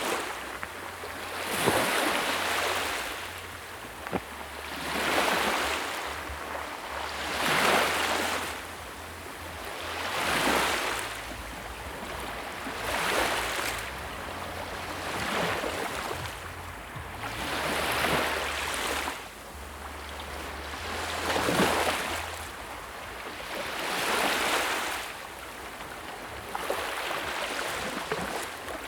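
Sea waves surging and falling away in a steady rhythm, one swell about every two and a half to three seconds.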